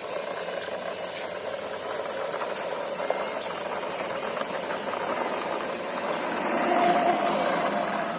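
Toy ambulance being pushed along by hand, its wheels rolling with a steady rushing noise that grows a little louder near the end.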